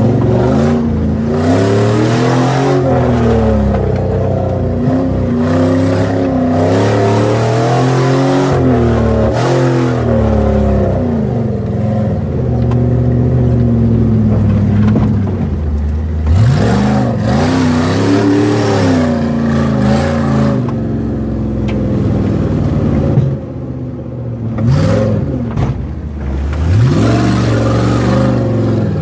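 Jeep Grand Cherokee's 4.7-litre V8 engine, heard from inside the cab, revving up and down over and over as it is driven hard off-road. The revs climb sharply about halfway through and twice near the end.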